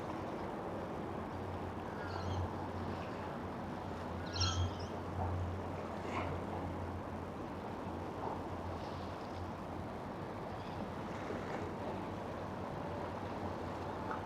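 Harbourside outdoor ambience: a steady low engine hum, stronger in the first half, with a few short bird chirps scattered through it.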